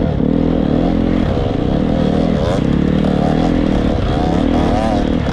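Triumph 250 motocross bike's single-cylinder four-stroke engine running under throttle while riding, the revs easing off and picking up again several times, with some clatter from the bike.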